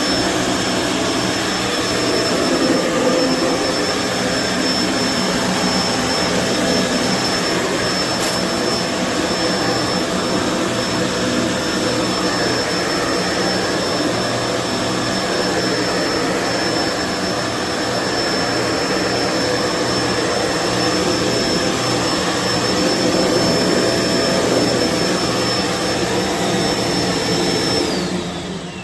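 Kenmore BU4050 bagged upright vacuum cleaner running steadily, its motor giving a constant high whistle over the rush of air. Near the end it is switched off and the whine falls away.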